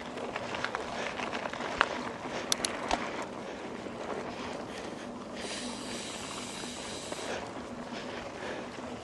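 Mountain bike rolling over a dirt path, with steady tyre and wind noise, a run of sharp clicks and knocks in the first three seconds, and a high hiss for about two seconds past the middle.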